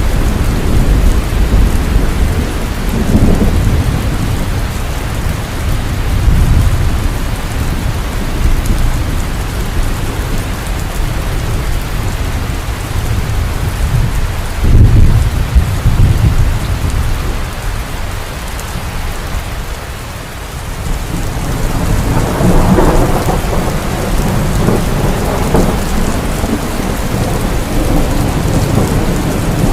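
Heavy rain falling steadily, with thunder rumbling low underneath. There is a loud rumble about halfway through, and a longer rolling peal later on.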